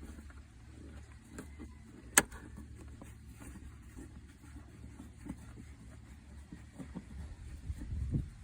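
Small clicks and handling knocks from a screwdriver working small screws out of a car's plastic centre console, with one sharp click about two seconds in, over a low steady rumble.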